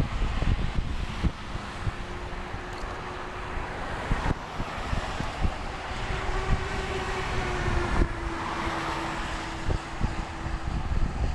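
Wind buffeting the microphone on a moving road bike, with a motor vehicle passing; its engine tone holds for several seconds and dips a little in pitch midway.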